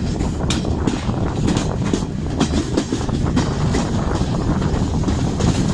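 Garib Rath Express passenger coaches running along the track, heard from aboard the moving train. A steady rumble of wheels on rail is broken by scattered clicks as the wheels cross rail joints.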